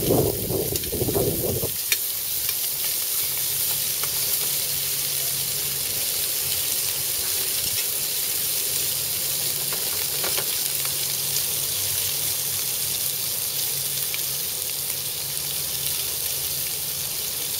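Whole shrimp sizzling in oil in a stainless steel frying pan, a steady hiss. In the first couple of seconds there is louder clatter as metal tongs turn the shrimp in the pan.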